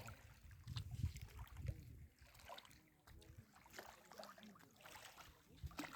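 Near silence: a faint low outdoor rumble with a few soft thumps and faint distant voices.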